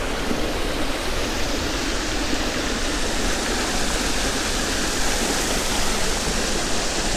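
Creek water rushing and splashing steadily over rocks and fallen debris, a constant even noise.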